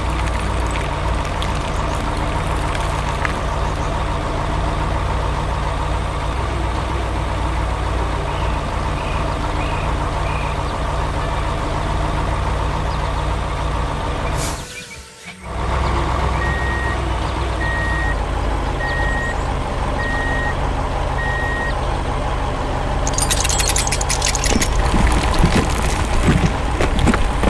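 Heavy truck engine running steadily, with a reversing alarm beeping five times, about once a second, after a brief drop-out halfway through. Near the end a burst of hiss and rattle comes in over the engine.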